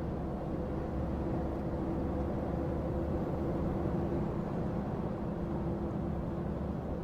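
Heavy goods lorry cab on the move: the diesel engine and tyre noise making a steady low rumble with a constant drone.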